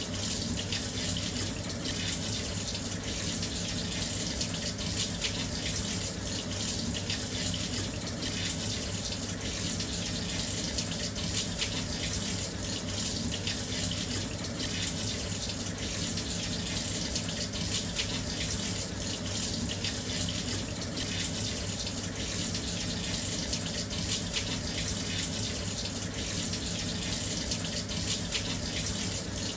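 Washing machine filling with water: a steady rush of water pouring into the drum, with a low hum underneath and no change throughout.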